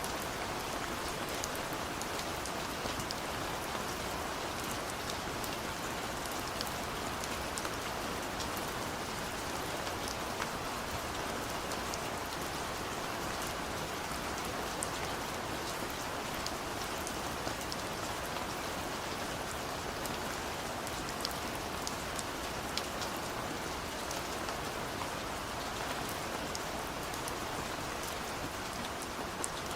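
Steady rain falling, an even hiss with many scattered sharp drop ticks on top.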